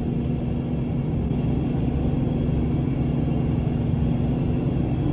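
1972 Ford Gran Torino Sport's V8 engine running steadily at low speed while parking, a low rumble with a steady hum over it.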